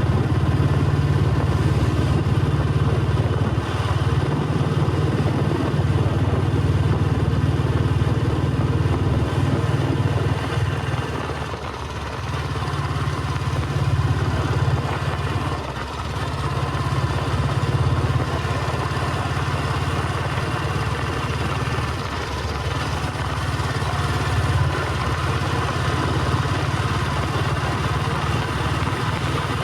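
Royal Enfield Bullet 350's cast-iron single-cylinder four-stroke engine thumping steadily while being ridden. The engine note dips briefly a few times.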